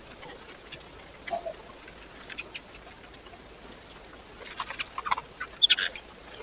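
Scattered short taps and scratches of animals feeding at a bird feeder, busier and louder in the last two seconds.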